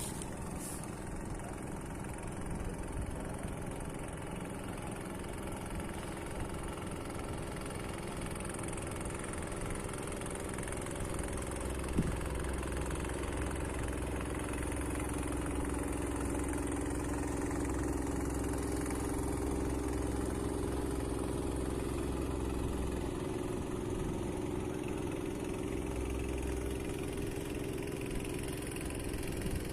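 Fishing boat engine running steadily, its hum growing louder from about twelve seconds in, then easing off near the end.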